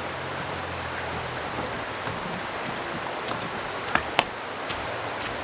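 Steady rushing of flowing creek water, with a few sharp clicks near the end.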